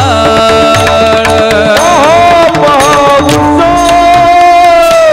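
Marathi devotional kirtan music: a singer holds long, wavering notes between the repeated verse lines, over steady lower held tones and frequent tabla and mridang strokes.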